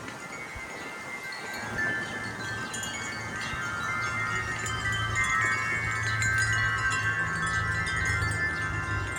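Several wind chimes ringing together in the wind, many overlapping tones struck at random, swelling louder a few seconds in.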